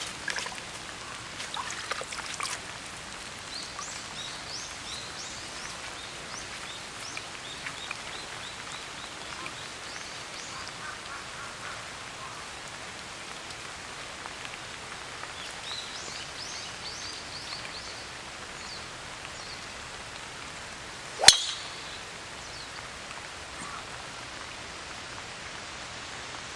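Steady heavy rain, with birds chirping now and then. About three quarters of the way through, a single sharp crack of a golf club striking the ball.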